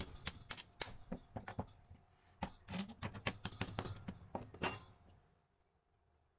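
A quick, irregular run of sharp clicks and light knocks, like small hard parts being handled and tapped together, stopping about five seconds in.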